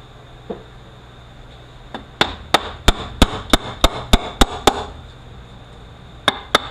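Hammer blows on a Toyota U760E automatic transmission during teardown: after one faint knock comes a run of about nine sharp strikes at roughly three a second, then two more near the end.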